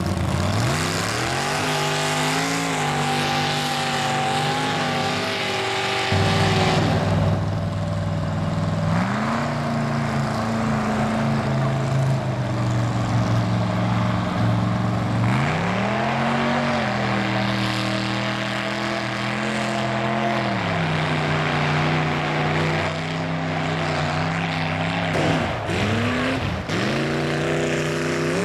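Mud bog truck's engine run hard at high revs, its pitch climbing and falling several times. There are two sharp dips and recoveries near the end.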